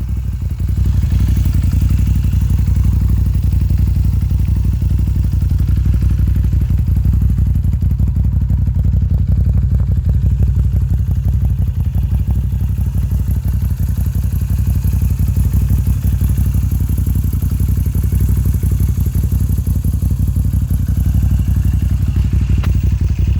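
Moto Guzzi V9 Bobber Sport's air-cooled 850 cc V-twin running steadily through an Agostini exhaust with the dB killers removed, a loud, deep, even pulse.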